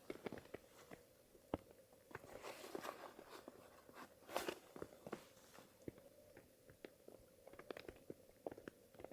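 Quiet, irregular small clicks and knocks, like gear being handled, over a faint steady hum.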